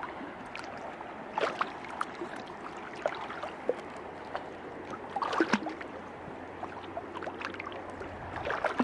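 River water rushing steadily, with a few brief louder sounds now and then.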